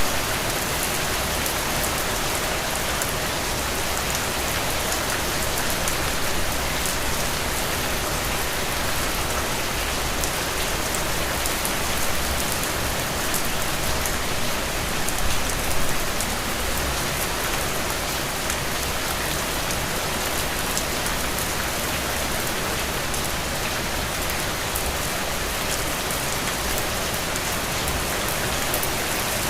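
Steady rain falling, an even hiss of many drops hitting surfaces, with small swells in strength now and then.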